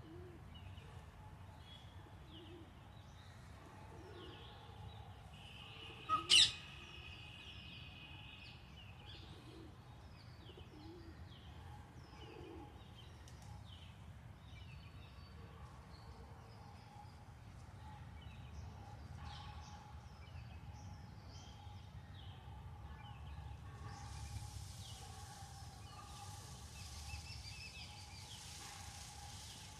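Birds calling outdoors: small birds chirping over and over, with low cooing notes repeating about once a second in the first half, like a dove. One loud, sharp bird call stands out about six seconds in.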